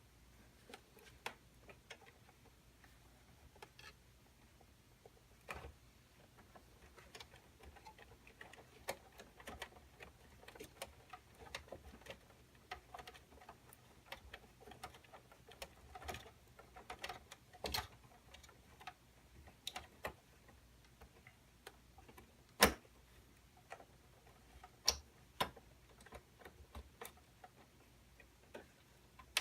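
Irregular small clicks, taps and rustles of cables and plastic connectors being handled and plugged into a computer's motherboard, with one sharper click about three-quarters of the way through.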